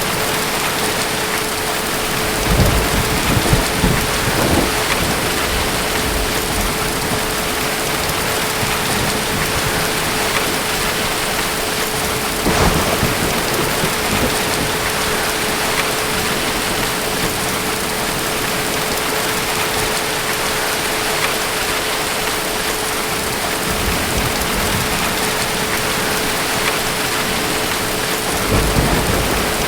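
Steady heavy rain, with low rolls of distant thunder swelling up a few times: about three seconds in, around the middle, and near the end.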